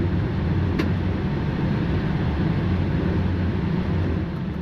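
Steady flight-deck noise of a Boeing 777-300ER in the air after takeoff: a low rumble with airflow hiss, and a single sharp click about a second in.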